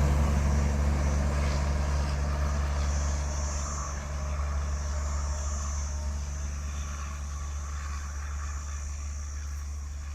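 A passing express train's rumble slowly fading as it moves away.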